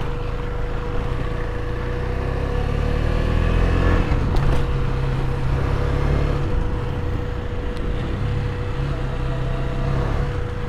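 KTM 250 Duke's single-cylinder engine revving up under load for about four seconds, dropping suddenly as at a gear change, then pulling steadily.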